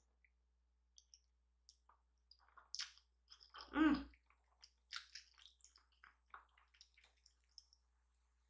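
Soft, wet chewing and mouth smacks of someone eating spicy ramen noodles, in short irregular clicks, with a hummed 'mmm' about four seconds in.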